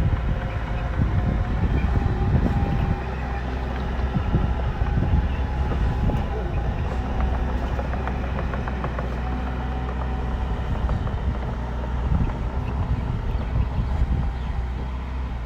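Bulldozer's diesel engine running steadily, with scattered metallic clanks and knocks from the machine at work.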